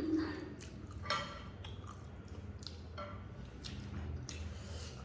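A person chewing and eating spicy noodles and chicken close to the microphone, with scattered small wet mouth clicks and smacks over a faint low hum.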